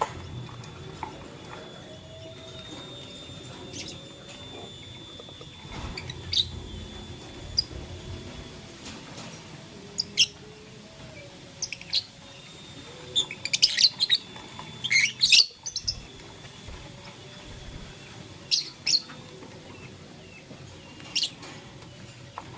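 Lovebirds giving scattered short, sharp, high chirps, a few seconds apart at first, then a quick run of them around the middle.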